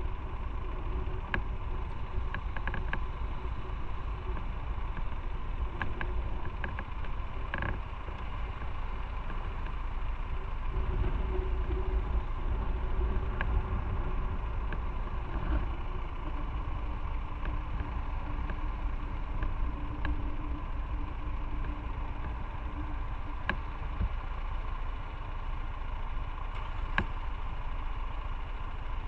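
Motorcycle engine running on the ride, over a constant low rumble. Its tone holds steady, then settles a little lower past the middle, with a few sharp clicks here and there.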